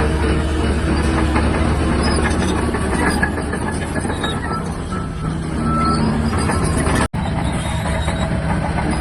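Shantui DH17-C3 bulldozer's diesel engine running steadily, dipping a little in level for a few seconds in the middle. The sound cuts out for an instant about seven seconds in.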